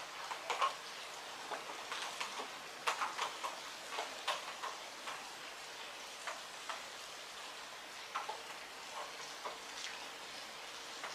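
Heavy rain falling, a steady hiss with irregular drops tapping on a hard surface close by, thickest a few seconds in.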